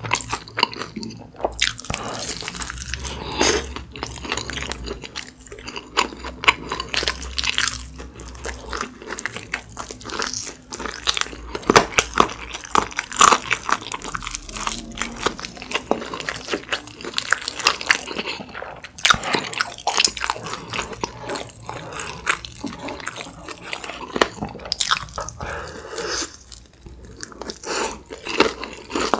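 Crunching and chewing as a sauce-coated fried chicken drumstick is bitten into and eaten, with many irregular crackling bites through the coating.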